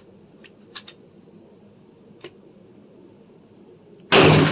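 Crickets trilling steadily with a few faint clicks, then a single loud pistol shot about four seconds in, its echo dying away.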